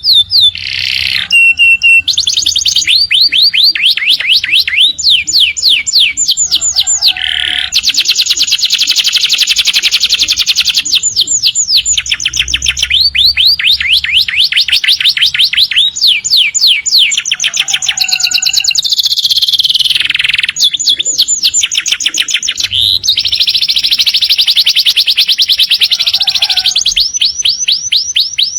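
Domestic canary singing a long, continuous song: rolling trills of rapidly repeated high sweeping notes, phrase after phrase with only brief breaks.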